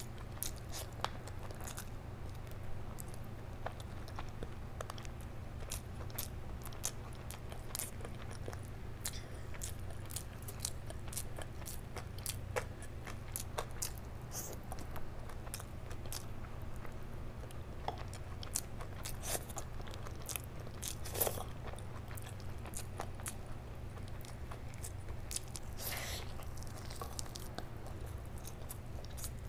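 Close-miked mouth sounds of a person eating rice and curry by hand: wet chewing with frequent sharp smacks and clicks, over a steady low hum.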